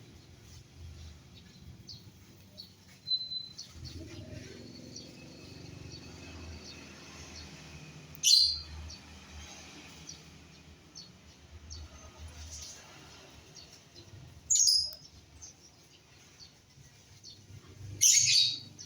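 Birds chirping: many small high chirps, with three louder calls about eight seconds in, at about fourteen and a half seconds and near the end.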